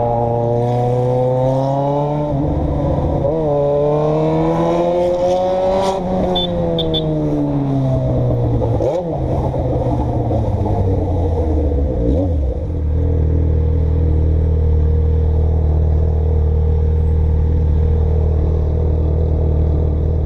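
A vehicle engine pulling away and accelerating, its pitch climbing, dipping briefly at a gear change about two seconds in, and climbing again before easing off. From about two-thirds of the way through it settles into a steady low hum.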